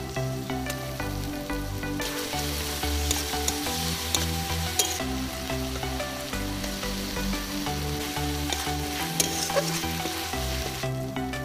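Sliced onions and ginger-garlic paste sizzling in hot oil in an aluminium kadai, stirred with a metal spatula that clicks and scrapes against the pan.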